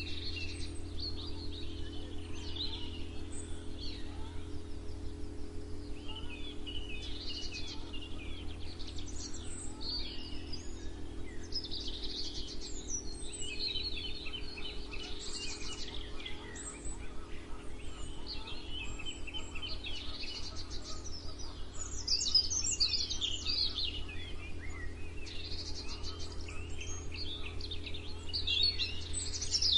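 Several songbirds chirping and singing in overlapping short, high trills and calls, over a steady low hum.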